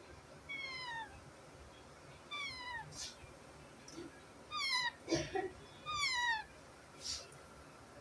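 Baby parrots calling: four drawn-out, meow-like calls, each falling in pitch, with a few short harsh squawks between them.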